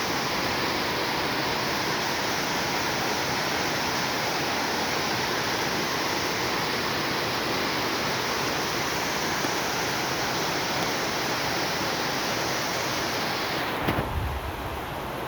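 Heavy rain falling, a steady dense hiss. Near the end the hiss suddenly drops away, with a couple of low thumps.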